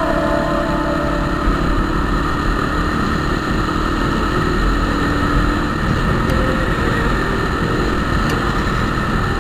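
Motorcycle riding along with its engine running steadily under a constant rush of wind and road noise.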